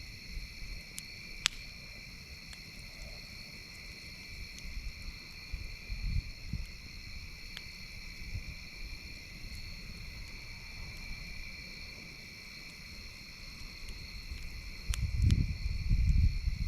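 Steady chorus of night insects such as crickets, with a campfire giving a few sharp pops and crackles. Low rumbling sets in near the end and is the loudest sound.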